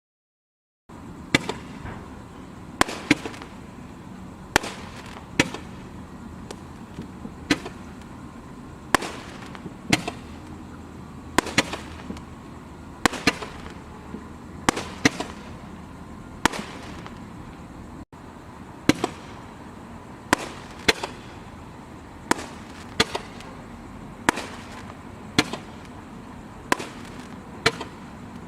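BOOMWOW 8 Ball Two Colored Eyes consumer firework firing repeated shots: sharp bangs about every second, some in quick pairs, over a steady background hiss.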